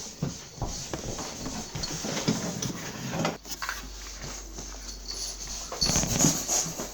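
A pet dog making a series of short, irregular noises, the loudest about six seconds in.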